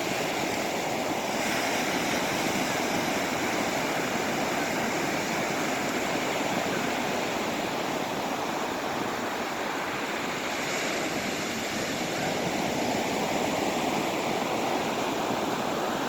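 Atlantic Ocean surf washing onto a beach at low tide: a steady rush of breaking waves that swells and eases slowly.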